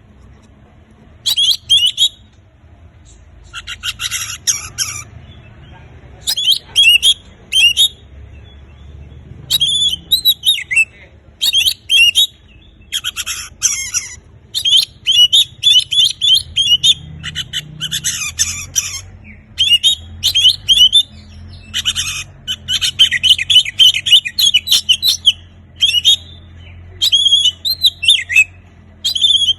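Oriental magpie-robin singing in full voice: a run of varied, fast whistled and chattering phrases, each a second or two long, separated by short pauses.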